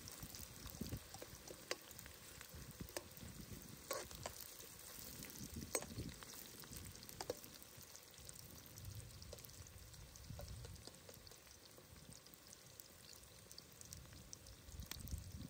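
Faint sizzling of food frying in oil in a pan, with occasional small sharp pops and clicks.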